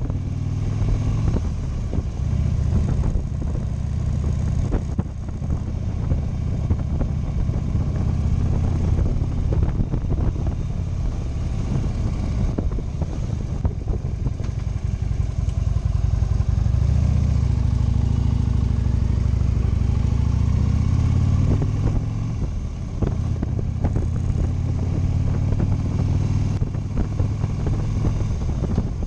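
Motorcycle engine running during a ride, its note rising and falling with the throttle, dipping briefly past the middle before picking up again.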